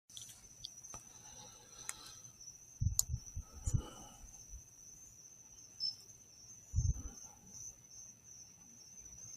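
Insects trilling steadily and faintly at a high pitch, with a few brief low thumps about three, four and seven seconds in.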